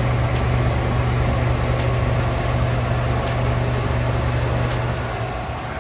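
GMC Yukon Denali XL's 6.2L V8 idling steadily, heard up close in the engine bay beside the alternator and the freshly installed serpentine belt.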